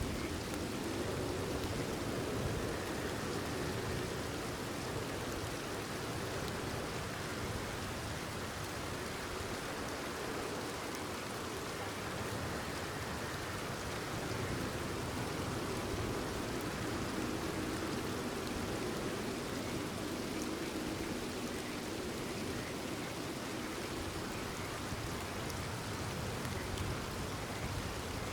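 Steady rain falling, an even hiss with no breaks or swells.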